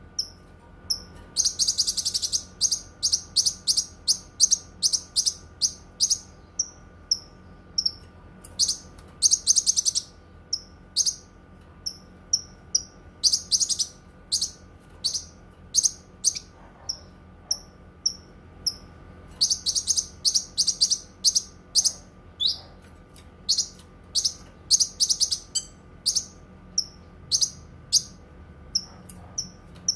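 A cucak kinoi songbird singing: short high chirps repeated about every half second, broken four times by rapid trilling runs of one to two seconds, the long 'nembak' bursts of its song. A faint steady hum sits underneath.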